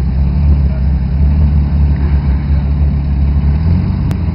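SUV engine running steadily at low revs, its pitch shifting slightly about three and a half seconds in, with a single sharp click near the end.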